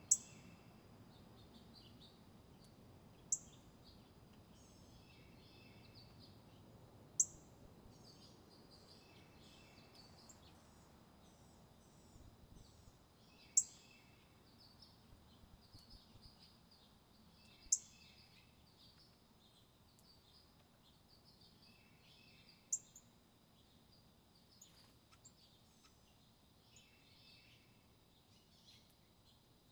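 Small birds chirping: a loud, sharp, high chip about every four seconds, six times, over many fainter twittering chirps and a steady faint high tone.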